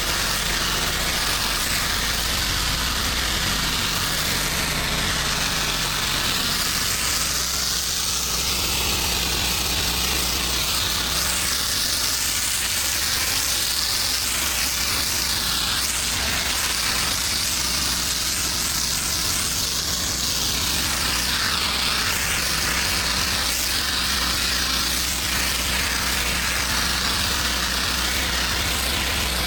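Pressure-washing equipment at work: an engine running steadily under a constant hiss of water spray.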